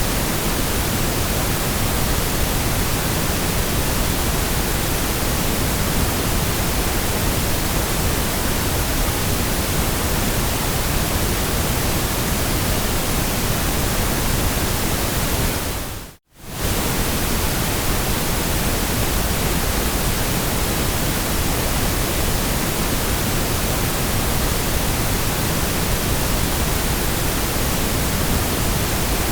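Steady white noise, an even hiss with weight at the low end. About sixteen seconds in it fades out to near silence for a moment and comes straight back.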